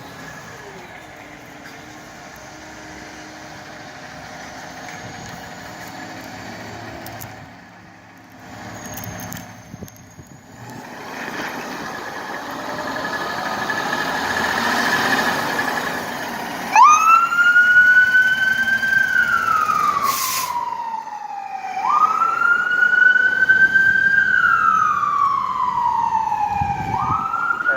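Fire engine pulling out, its engine noise building, then its siren starts about two-thirds of the way in: a wail that sweeps up quickly and slides slowly down, repeating about every five seconds. A short burst of noise cuts through the siren partway along.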